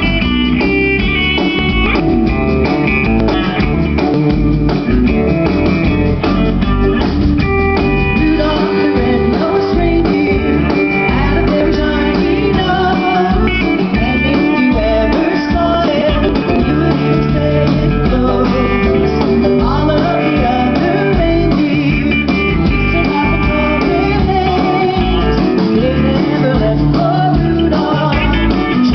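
Live band music led by guitar, with a bass line and drum kit and a singer's voice at times.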